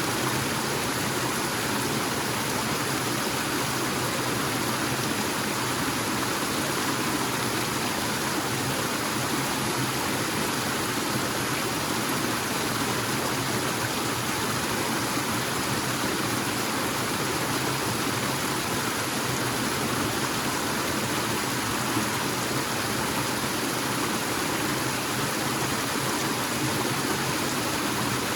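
Forest waterfall rushing steadily, a continuous even roar of falling and running water.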